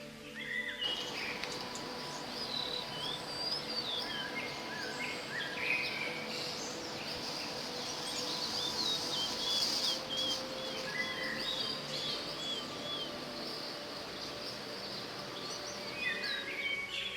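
Several wild birds chirping and singing over a steady background hiss, with a run of short repeated whistled notes in the middle.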